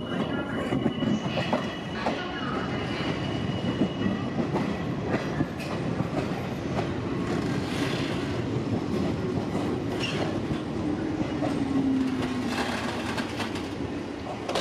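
Izuhakone Railway 5000 series electric commuter train pulling in alongside the platform, its wheels clacking over the rail joints under a steady running rumble. Near the end a low tone falls in pitch as the train slows to a stop.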